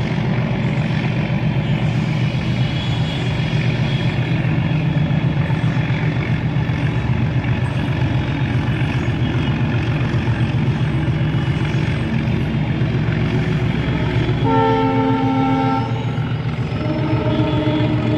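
Indian Railways diesel locomotive engine running with a steady, heavy low throb. Near the end its horn sounds twice, the second blast lower in pitch.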